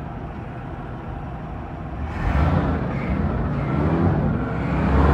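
Chevrolet engine running with the hood open, getting louder about two seconds in, its pitch rising and falling as if being revved.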